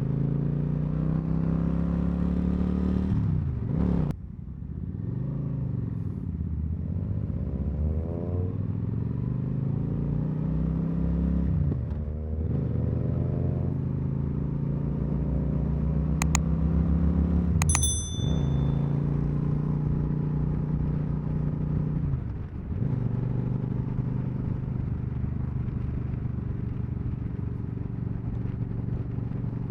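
Cruiser motorcycle engine running under way. Its revs climb and then drop back several times, as it does when shifting through the gears. Two sharp clicks come a second and a half apart about midway.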